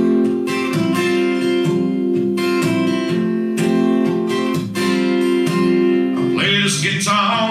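Acoustic guitar strummed in an instrumental break between sung lines of a country song, steady chords with a regular strumming rhythm; the singing voice comes back near the end.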